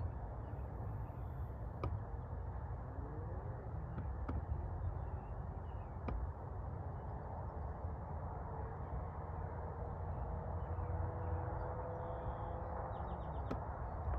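Outdoor field ambience: a steady low rumble and hiss with faint, scattered bird calls and a few light clicks.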